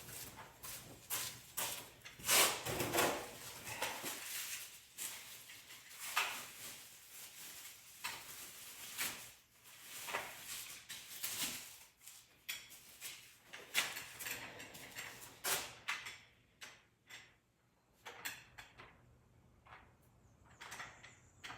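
Irregular knocks, clicks and rustling of parts and tools being handled during an install, in quick uneven bursts that thin out after about two thirds of the way through.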